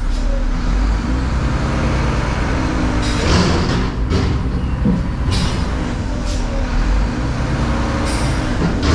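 Diesel truck engine running, its pitch drifting slowly up and down, with several short rushes of noise over it.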